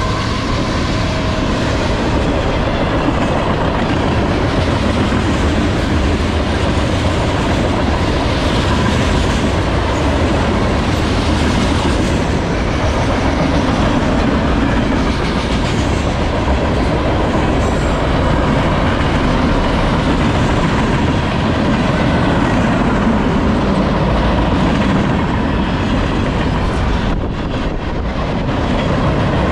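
Freight cars of a mixed manifest train rolling past at speed: a steady, loud wheel-on-rail rumble and rattle from the tank cars, hoppers and boxcars going by.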